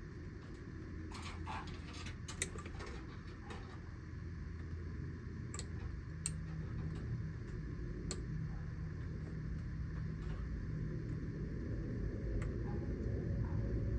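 Scattered small clicks and taps of hands working with parts and tools, over a steady low rumble.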